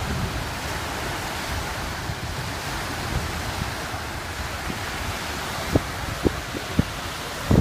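Wind buffeting the microphone over a steady wash of waves on the reservoir shore. Several short low thumps come in the last two seconds, the loudest near the end.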